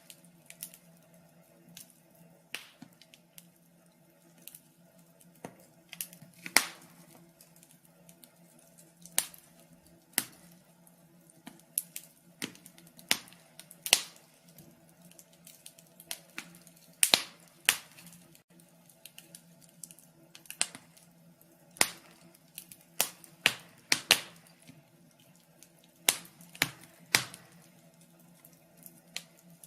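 Wood fire in a fireplace crackling: irregular sharp pops and snaps, sometimes several in quick succession, over a faint steady low hum.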